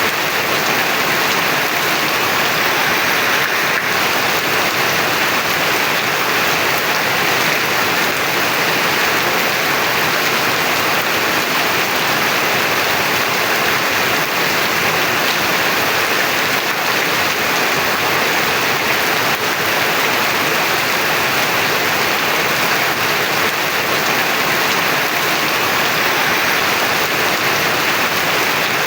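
Heavy rain falling steadily, an even dense hiss of drops with no thunder.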